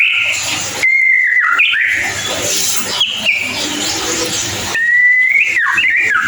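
White-rumped shama singing: long, clear whistled notes about a second in and again about five seconds in, each breaking into quick bending slurs, with noisy chattering between.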